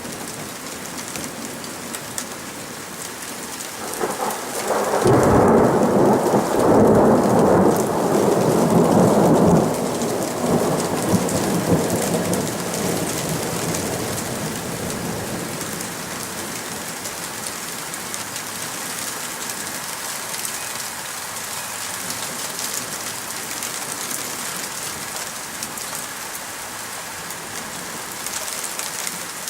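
Thunderstorm: steady rain falling, with a long roll of thunder that starts about four seconds in, is loudest for about five seconds, then dies away slowly under the rain.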